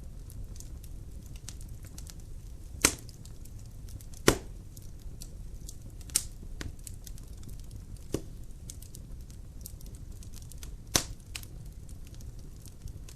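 Wood fire burning in a fireplace: a steady low rumble with constant faint crackling, broken by about five sharp pops from the logs, the loudest about four seconds in.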